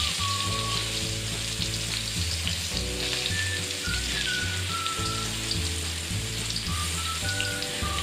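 Ground spice paste with lemongrass and lime leaves sizzling as it fries in hot oil in a wok, with small scattered spits. Background music with a plodding bass line and a simple melody plays underneath.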